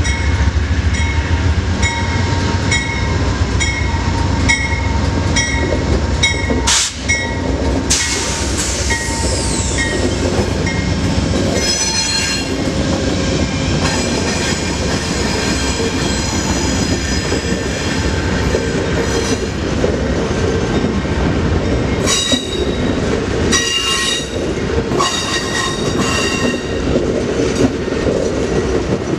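A train rolling past with a steady low rumble. A regular high clacking comes about one and a half times a second for the first eight seconds, and the steel wheels squeal in high tones through the middle and again near the end.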